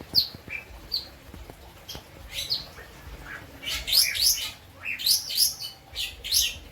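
Lovebird singing in short, sharp, high chirps, scattered at first and then coming thick and fast from about halfway through. Its song carries imitated kapas tembak notes.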